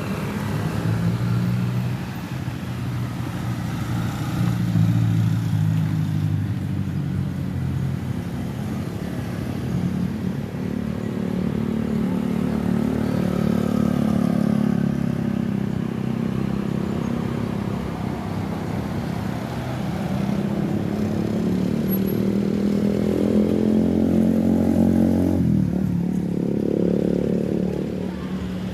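Quadcopter drone's electric motors and propellers humming, the pitch drifting up and down as the drone manoeuvres, rising for several seconds before changing abruptly near the end.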